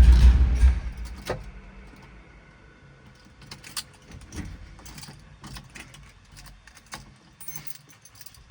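A 1970 Camaro's 383 stroker small-block V8 is running, then is switched off about a second in and dies away. It is followed by scattered light clicks and a jingle like keys.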